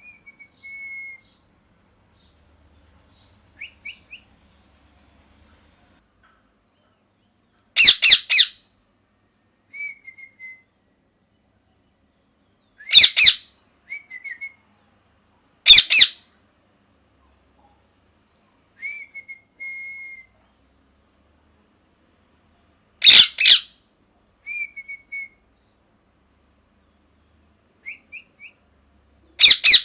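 Ringneck parrot giving five loud, harsh screeches a few seconds apart, with short, soft whistled chirps in between.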